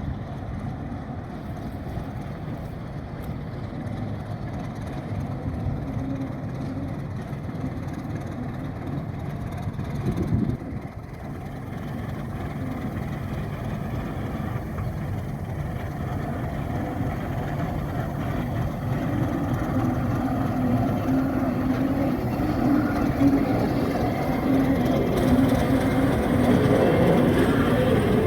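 Alco RS8 diesel locomotive running while shunting, a steady low engine drone with a hum that grows louder toward the end.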